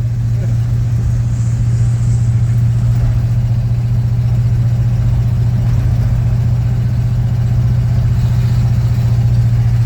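1952 Ford F-2 pickup driving along on its original drivetrain, its engine running at a steady speed with a constant low drone. It is running fine.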